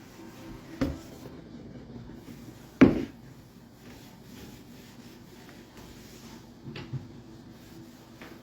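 A few indoor knocks: a thump just under a second in, a louder one about three seconds in, and a softer double knock near seven seconds.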